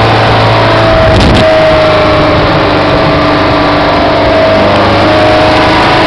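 Speedboat engine running at speed with a steady drone that wavers slightly in pitch, over heavy wind and water noise, with a brief thud about a second in.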